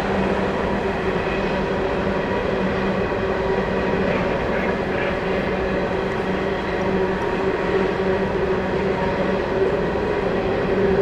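Long loaded freight train's cars rolling steadily past on jointed and curved track: a continuous rumble and rolling noise with a constant low hum running through it.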